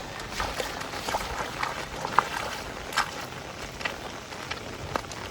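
Heavy rain falling steadily, with single drops striking a nearby surface as sharp, irregular taps.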